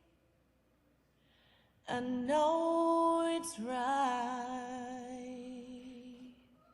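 A woman's voice singing two long wordless held notes with vibrato in a recorded song, coming in about two seconds in after a near-silent pause and fading near the end.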